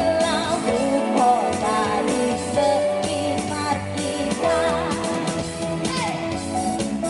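Live pop-rock band playing, with a singer's voice over guitar and drums.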